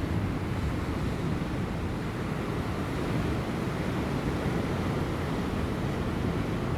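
Ocean surf breaking and washing over rocks, a steady rushing noise strongest in the low range, with light wind.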